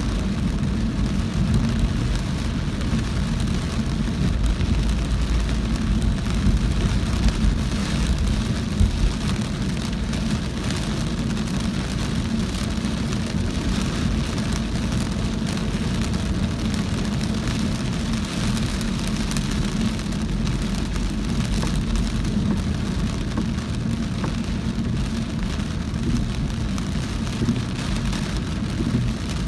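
Heavy rain falling on a moving car, many small ticks of drops over a steady low rumble of the car driving on a wet road.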